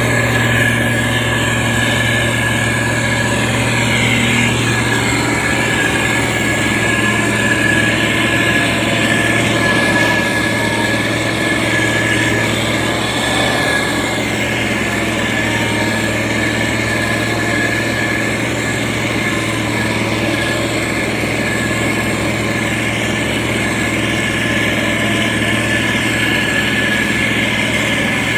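Diesel engine of a SANY STG190C-8S motor grader running steadily under working load, with a constant low hum and a steady high-pitched whine over it.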